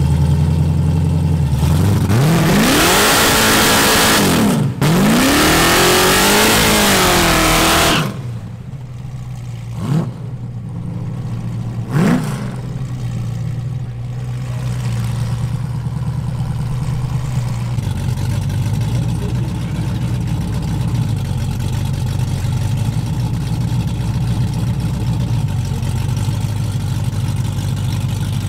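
Street-race car engines at the starting line. One revs hard for about six seconds, its pitch sweeping up and down over a loud hiss like spinning tyres. Then come two quick throttle blips, and after that a steady idle.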